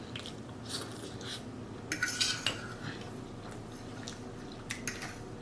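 Eating utensils clinking and scraping against a plate in a few short clicks, busiest about two seconds in and again near the end.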